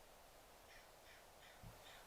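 Faint crow cawing: a quick run of four short caws in the second half, about three a second. A brief low thump comes partway through the run.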